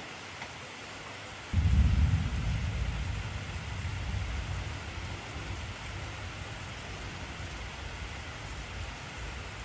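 Steady heavy rain hissing, with a thunderclap about a second and a half in: a sudden deep rumble that slowly fades over the following several seconds.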